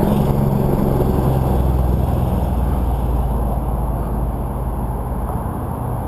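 A motor vehicle engine running at a steady low pitch, its hum easing off over the last couple of seconds.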